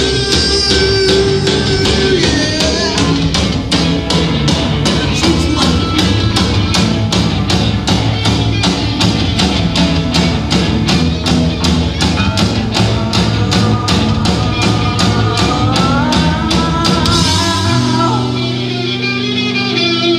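Rock band playing live: guitars, bass and drums in a loud instrumental passage over a steady drum beat. Near the end the drums drop out, leaving held guitar chords ringing.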